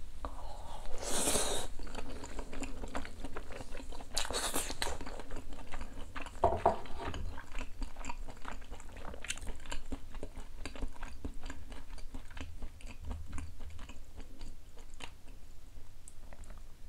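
Close-up chewing of boiled duck meat: wet mouth clicks and smacking that go on steadily, with two louder noisy bursts near the start as a piece is bitten and taken into the mouth.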